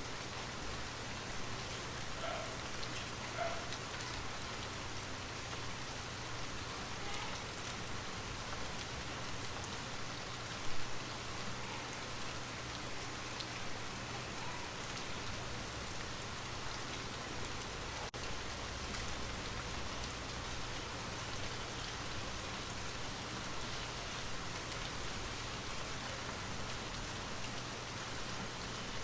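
Steady rainfall with individual drops audible, over a low steady hum. A single loud knock stands out about eleven seconds in.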